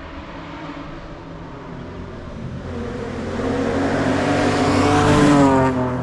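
Race car engine at full throttle, growing louder as the car climbs toward the microphone, its pitch rising. It passes near the end, and the engine note drops and fades as it goes by.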